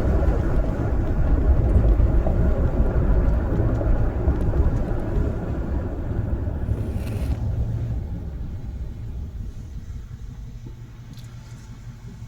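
A deep rumble, loud for the first half and then fading away steadily over the last several seconds.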